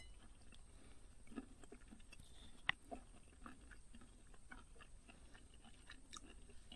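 Faint close-up chewing and small clicks of a person eating, with one sharper click a little under three seconds in.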